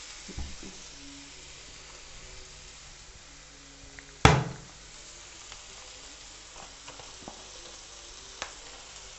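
Chopped tomatoes and vegetables sizzling steadily as they fry in a nonstick pan. A single sharp, loud knock comes about four seconds in, and a lighter click near the end.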